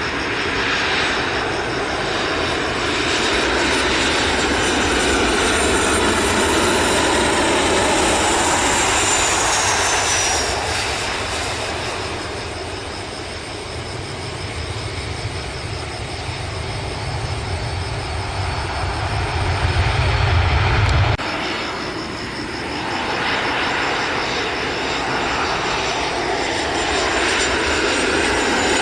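Jet engines of landing Boeing 737 airliners (CFM56 turbofans), a steady rush with a thin whistle falling in pitch about nine seconds in. A heavy low rumble builds in the second half and cuts off abruptly about 21 seconds in, where the engine sound of a second 737 takes over.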